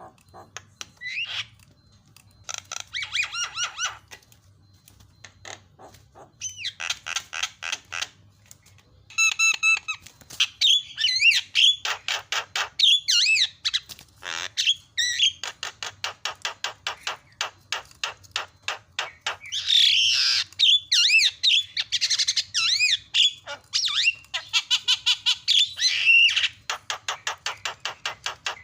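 Javan myna calling: rapid runs of harsh chattering notes and squawks mixed with short whistles, in bursts with short gaps at first and nearly unbroken from about a third of the way in.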